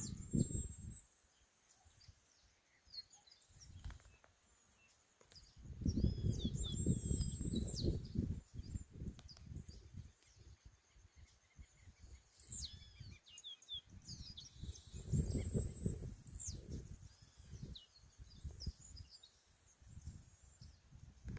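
Birds chirping and calling with short high twittering phrases, over a faint steady high whistle; irregular low rumbling comes and goes twice, about six and fifteen seconds in.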